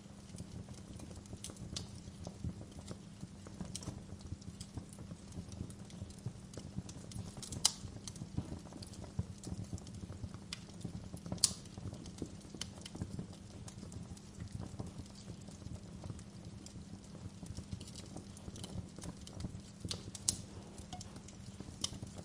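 Wood fire crackling in a fireplace: a steady low rumble of the flames with scattered small crackles and a few sharper pops. The loudest pops come about a third of the way in, halfway, and near the end.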